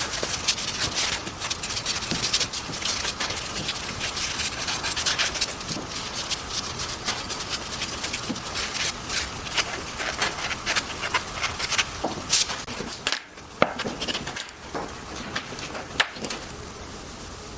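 Wood being worked by hand: irregular rubbing and scraping strokes with sharp ticks and taps, pausing briefly about three-quarters of the way through.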